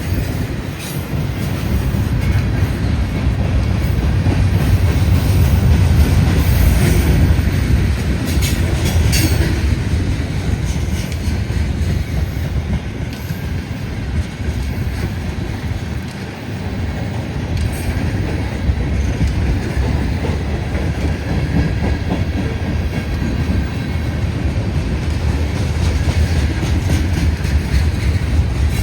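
Norfolk Southern freight train's cars rolling past at speed: a steady low rumble with rapid clickety-clack of the wheels over the rail joints.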